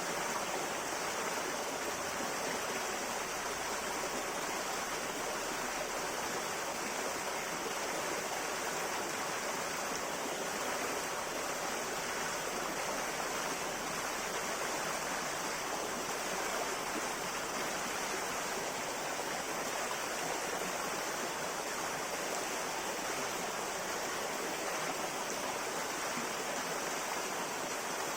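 River water flowing, a steady, unbroken sound with no pauses or changes.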